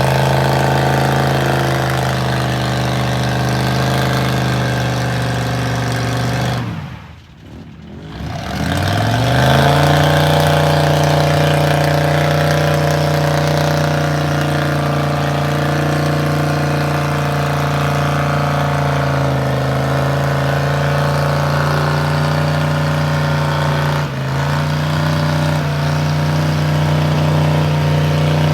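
A truck engine running at a steady, fairly high speed in the mud hole. About seven seconds in the sound drops away briefly, then the engine comes back rising in pitch and holds steady, with a small step up in speed near the end.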